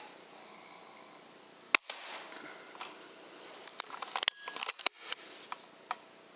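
A single sharp shot from a Weihrauch HW100 .22 pre-charged air rifle, followed about two seconds later by a quick run of clicks and rattles and a few fainter ticks.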